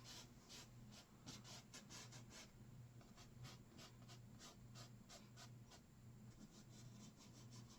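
Faint, short scratches of a bristle paintbrush on canvas, roughly three or four strokes a second, over a steady low hum.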